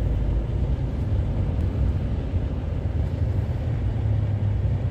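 Road traffic with a heavy truck's engine running: a steady low rumble with tyre and road noise above it.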